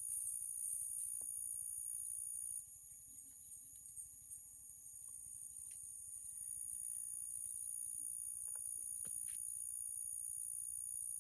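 Insects droning in a steady, very high-pitched chorus that holds unbroken, with no rain audible.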